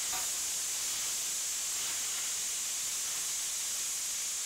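Green chillies, grated raw mango and soaked fenugreek seeds sizzling in hot oil in a stainless steel kadhai: a steady frying hiss.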